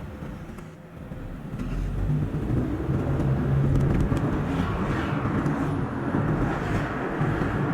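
Car engine and tyre noise of a car driving on a road, played back at double speed. It dips about a second in, then grows louder about two seconds in.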